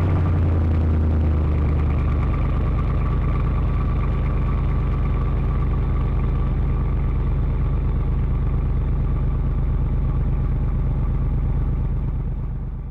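Pickup truck engine idling just after a cold start, its revs easing down over the first couple of seconds and then running steadily.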